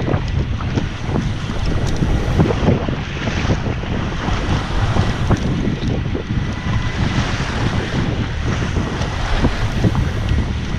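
Wind buffeting the microphone aboard an open fishing boat at sea, over the steady wash of the waves.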